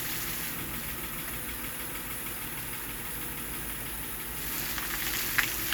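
2007 Honda Odyssey's 3.5-litre V6 idling steadily with no clunk from the front suspension, a sign that the replaced stabilizer-bar bushings have cured the noise. One sharp click near the end.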